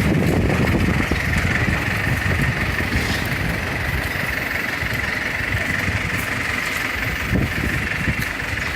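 Strong windstorm wind buffeting the microphone: a loud, steady low rumble that rises and falls in gusts, with a constant hiss higher up.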